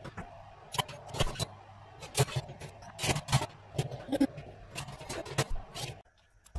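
Metal oven racks and trays being put back into the oven: an irregular run of sharp knocks and clinks, which stops abruptly about six seconds in.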